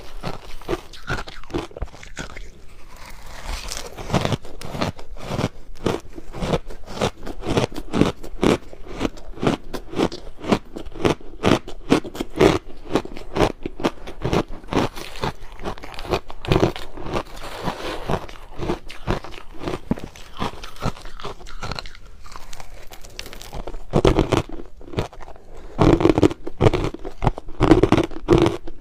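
Crushed ice being bitten and chewed close to the microphone: rapid, continuous crunching and crackling.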